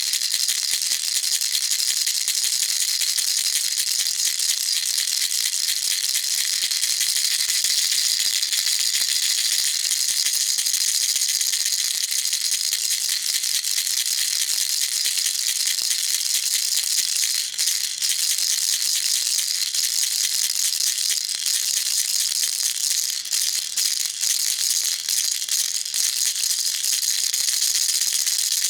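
Baby rattle shaken continuously, a dense, steady, high-pitched rattling with a few brief breaks in the shaking past the middle.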